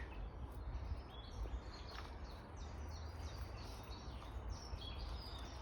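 Woodland songbirds singing: a run of short, high, quick notes repeated several times a second, over a steady low rumble.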